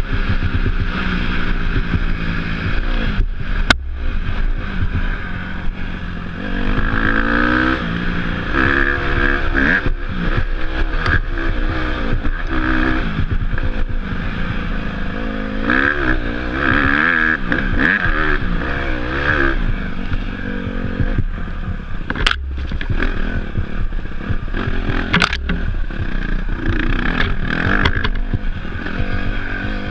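Off-road dirt bike engine under way, its pitch repeatedly rising and falling as the throttle is worked over rough ground, with a few sharp knocks.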